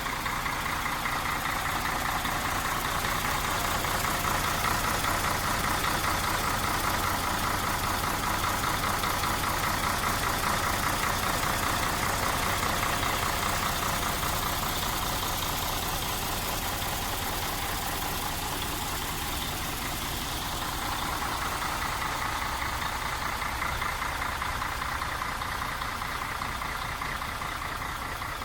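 MAN TGA 18.360 truck's inline-six diesel engine idling steadily with an even, rhythmic clatter.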